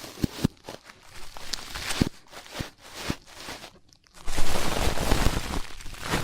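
Ear-cleaning ASMR: an ear-cleaning tool scratching and scraping close against the microphone in irregular strokes with a few sharp clicks. About four seconds in it changes to denser, louder continuous rubbing.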